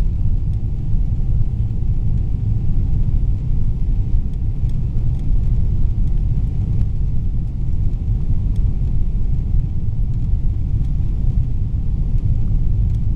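Steady low rumble of engine and airflow noise inside the cabin of a Boeing 777-300ER in flight.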